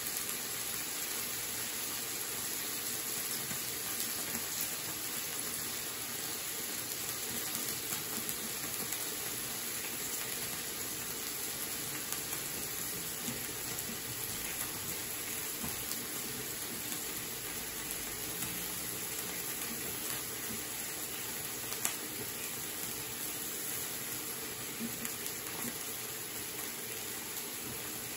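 Meat and fish sizzling steadily on a hot electric griddle, an even frying hiss, with one sharp click about three-quarters of the way through.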